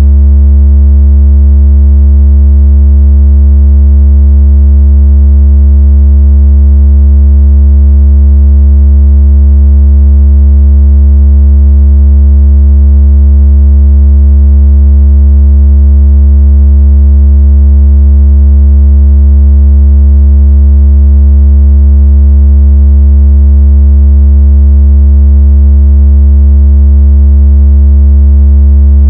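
Synthesized deep bass tone held steady and unchanging at very high level, a buzzy low hum with overtones above it: a sound effect for vibrating water out of a phone speaker.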